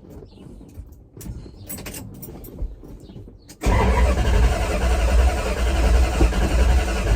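A few light clicks, then about three and a half seconds in the pickup truck's engine comes on abruptly and runs steadily, loud and heavy in the bass. The engine is running right after a fresh fill of oil.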